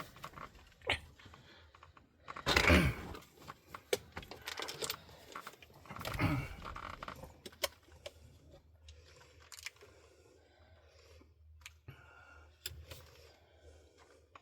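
Rummaging through tool kits: small metal tools clinking and rattling, with scraping and rustling as the kits are handled. Louder bursts of rummaging come about two and a half and six seconds in.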